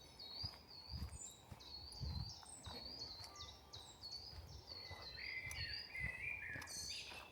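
Woodland birdsong: a small songbird repeating a quick series of short, high chirping notes, with a lower run of chirps joining about five seconds in. Soft footsteps of someone walking the forest path sound underneath.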